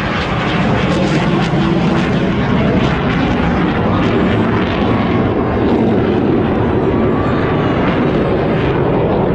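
Engine noise of an airplane flying past during an air show display, loud and steady.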